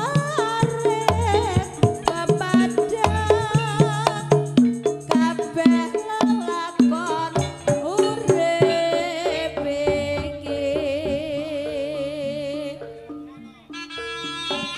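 Traditional East Kalimantan Javanese dance-troupe music: hand drums and struck percussion keeping a busy beat under a wavering, nasal reed-pipe (slompret) melody. The music thins out briefly near the end, then resumes.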